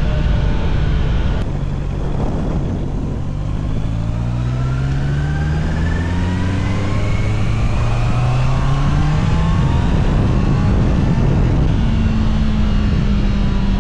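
Honda CBR650R's inline-four engine under way: the engine note dips about a second and a half in, then climbs steadily in pitch for about eight seconds as the bike accelerates, and settles to a new, slowly falling note near the end.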